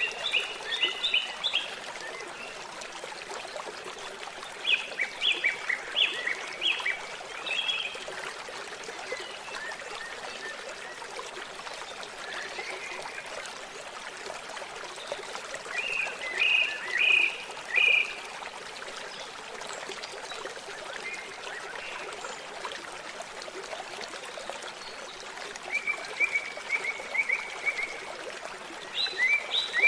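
Steady sound of flowing, trickling water, with a bird repeating short phrases of quick high notes every several seconds.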